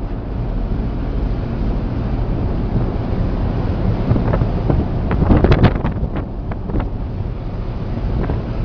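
Wind buffeting the microphone over the steady low rumble of a vessel at sea in rough water. A louder rush with crackling comes about five seconds in.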